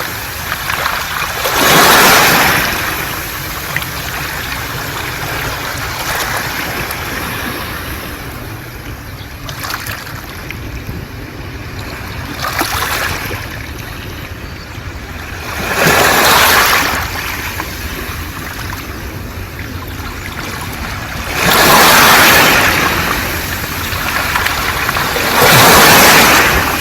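Sea waves washing up a beach of smooth round pebbles and drawing back, the wash hissing and rattling through the stones in surges every few seconds over a steady low rumble of surf. The last two surges are the loudest.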